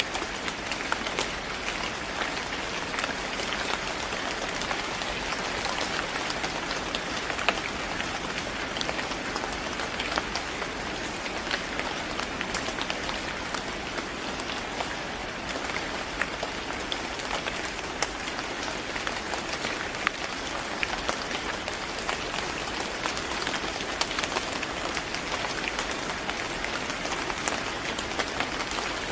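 Steady rain falling on a surface: an even hiss dotted with many separate drop ticks.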